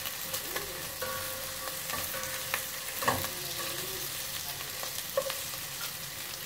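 Hotdogs and pork pieces sizzling as they fry in a stainless steel pot, with a steady hiss and short clicks and scrapes as a utensil stirs them against the pot.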